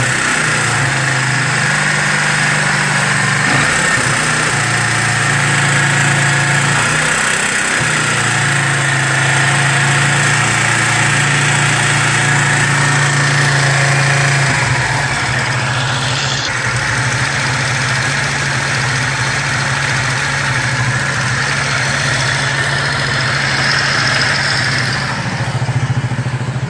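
Single-cylinder four-stroke engine of a rebuilt Keeway RKV 200 motorcycle running, its speed held and changed in steps, up and down. The owner hears a metallic noise from it once warm above about 3,500 rpm, which he likens to loose rocker arms.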